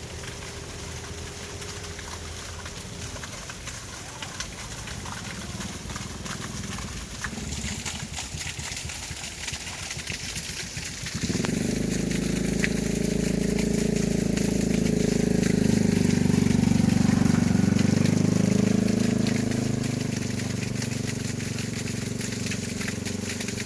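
Light rain falling, with a steady hiss and scattered drips. About eleven seconds in, an engine starts running close by, growing louder for several seconds and then easing off.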